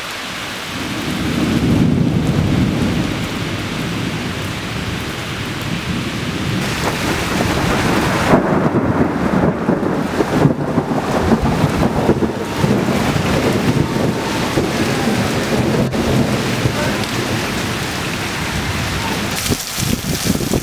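Loud, gusty wind noise on the microphone, rumbling and uneven, with scattered sharp crackles.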